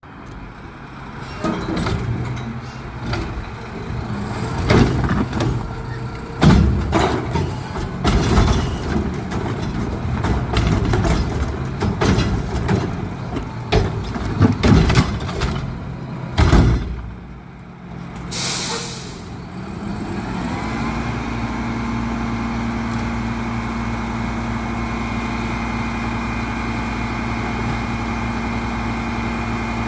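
Garbage truck collecting recycling: about seventeen seconds of repeated clattering and bangs as a cart is dumped and recyclables fall into the hopper. A short air-brake hiss comes at about 18 seconds. The truck's diesel engine then runs steadily with a steady whine.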